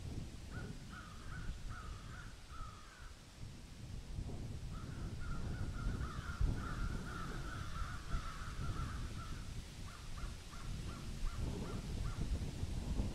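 Birds calling in repeated series of short calls, over a steady low rumbling noise. The calls come in a few groups, thickest in the middle, then a run of short separate notes.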